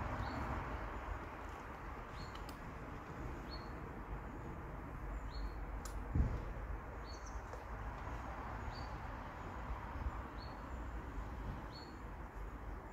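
A small bird repeating a short, high chirp about every two seconds over a steady outdoor background hiss, with a single dull thump about six seconds in.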